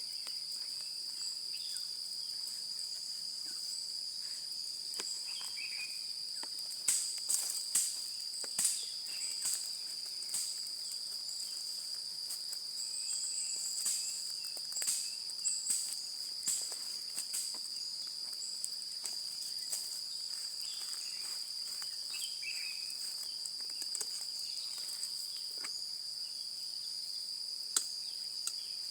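A steady, high-pitched insect chorus, with scattered sharp clicks and crackles over it, bunched about seven to ten seconds in and again around fifteen to seventeen seconds.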